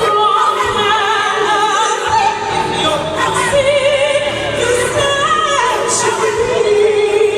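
Gospel choir singing with a lead voice, held notes that bend and slide in pitch, with band accompaniment.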